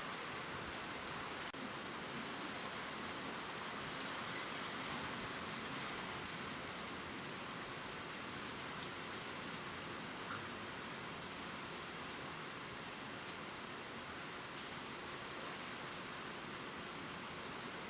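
Steady gentle rain falling on leaves, a continuous patter with faint scattered drop ticks.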